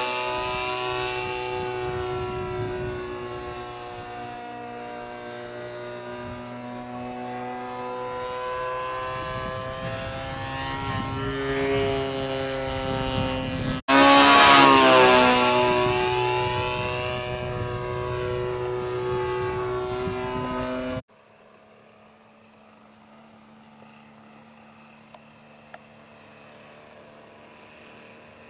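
Turnigy 30cc two-stroke petrol engine of a Yak-54 RC model airplane buzzing through flybys, its pitch sliding up as the plane approaches and falling away as it passes. About 21 s in the sound cuts off abruptly to a much quieter stretch with only a faint steady hum.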